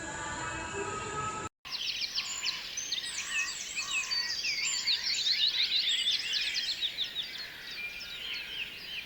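Many small birds chirping at once in a dense chorus of quick, overlapping chirps. It starts after an abrupt cut about a second and a half in, which ends a different steady background sound.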